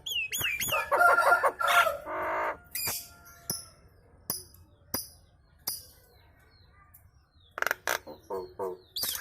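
Nias hill myna chattering with other birds joining in: a jumble of gliding whistles, harsh squawks and sharp clicks. The calls grow sparse and fall quiet for about a second and a half past the middle, then pick up again near the end.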